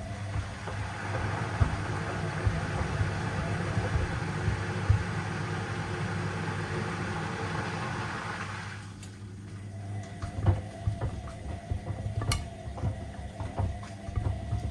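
Washing machine running with a steady low motor hum and a rush of water that dies away about eight seconds in, followed by irregular knocks, typical of sneakers tumbling in the drum.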